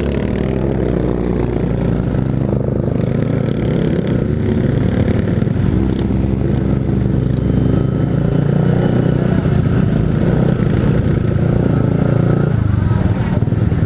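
Motorcycle engine running under way with a steady note that eases off near the end.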